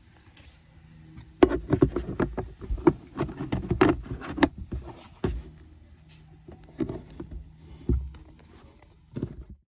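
Quick clicks and knocks of a car's plastic glove box and interior trim being handled and refitted, a dense clatter of them for about three seconds, then a few single knocks spaced out.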